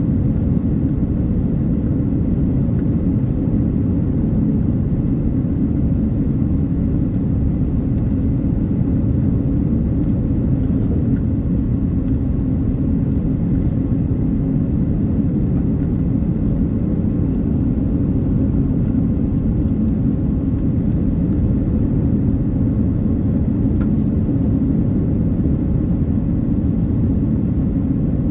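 Steady cabin rumble inside an Airbus A330-900neo airliner: engine and airflow noise heard from a passenger seat, even throughout with no distinct events.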